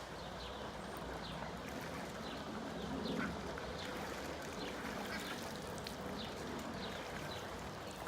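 Ducks calling in short, repeated calls over a steady rush of flowing irrigation water.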